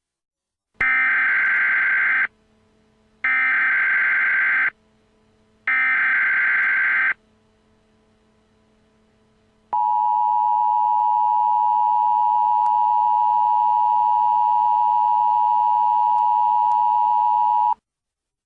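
Emergency Alert System SAME header: three bursts of buzzing digital data tones, each about a second and a half long, separated by short gaps. After a pause comes the EAS attention signal, a steady two-tone alarm held for about eight seconds.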